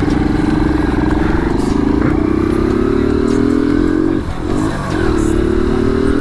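Motorcycle engine heard from the rider's seat, pulling away and rising steadily in pitch as it accelerates. About four seconds in the revs drop briefly, as at a gear change, then climb again, with a low rush of wind and road noise underneath.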